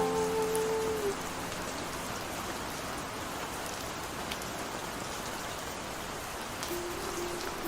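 Steady rainfall with scattered drop ticks. A held music note fades out about a second in, and soft notes of the next song come in near the end.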